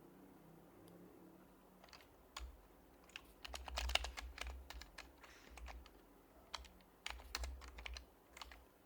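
Typing on an HHKB Professional HYBRID Type-S keyboard with silenced Topre switches; each keystroke is a click with a low thud beneath it. After about two quiet seconds the keys start, coming in two quick flurries with scattered single strokes between them.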